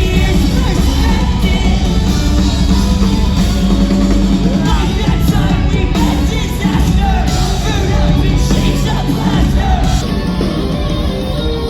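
Post-hardcore rock band playing live at full volume, with sung vocals over loud amplified guitars and drums.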